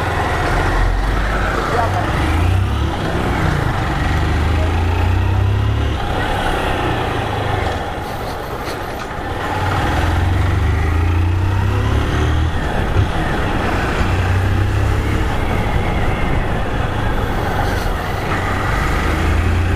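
Motorcycle on the move: wind rushing over the microphone in gusts, with the engine and road traffic running underneath.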